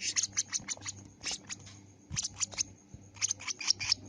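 Lovebird giving short, sharp, high-pitched chirps in quick runs of several, with brief pauses between runs.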